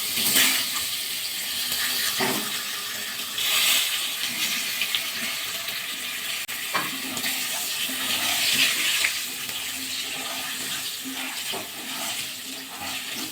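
Potatoes frying in hot mustard oil in a kadai: a steady sizzle that swells a few times, with a few light knocks.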